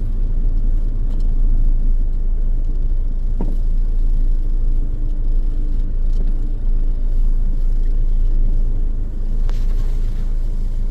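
Car driving along a road: steady low engine and tyre rumble. A short sharp sound comes about three and a half seconds in, and another brief one about nine and a half seconds in.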